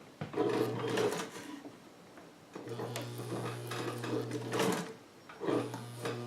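Vintage Sovereign sewing machine's electric motor running, stitching leather in three short runs with brief stops between, the needle mechanism clattering steadily over the motor's hum.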